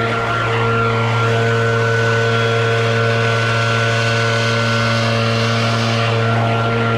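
Gas leaf blower engine running steadily at high throttle, with an even pitch and a rushing air hiss.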